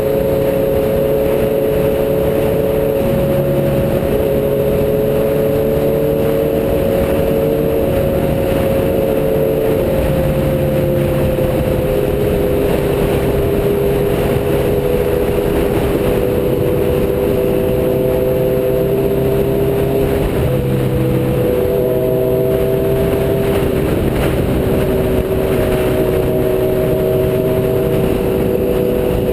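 Several motorcycle engines running together at a steady cruise, each holding its own pitch, with slow small shifts up and down as the riders ease the throttle.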